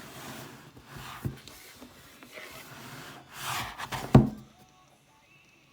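Cardboard toy box being handled and opened, with scratchy rubbing and sliding of cardboard and a single sharp knock about four seconds in, then quiet.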